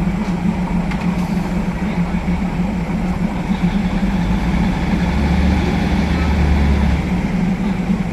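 Diesel railcar engine running steadily, with a deeper low rumble swelling in for about two seconds past the middle.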